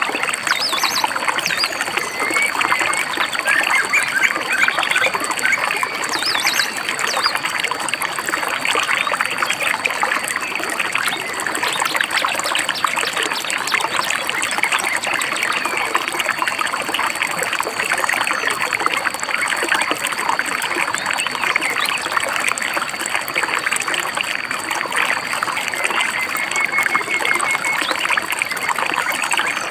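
Shallow stream babbling and trickling steadily over stones, with a few faint bird chirps.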